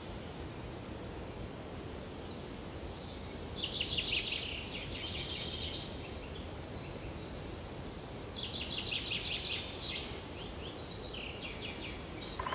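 Birds chirping and trilling in several short bouts over steady background noise.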